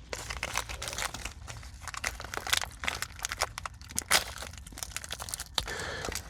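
Nature Valley granola bar wrapper crinkling and tearing as it is opened: a dense, continuous run of sharp crackles.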